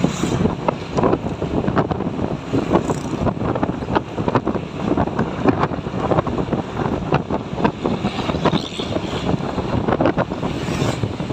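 Wind buffeting the microphone over the running of a truck, a dense, irregular crackling rumble.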